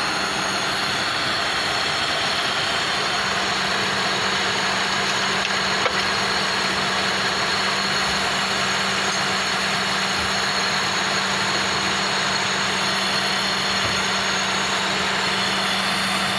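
Toyota Corona's 3S inline-four engine idling steadily just after being started, an engine being troubleshot for a misfire. A single short tick sounds about six seconds in.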